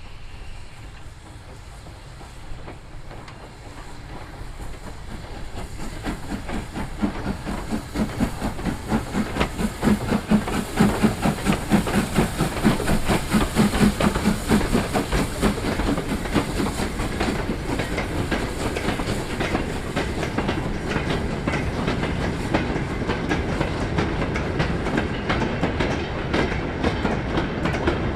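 A train passing close by, its wheels clattering rhythmically over the rail joints. It builds up over the first few seconds, is loudest near the middle, then settles into a steady run of clatter as the coaches go by.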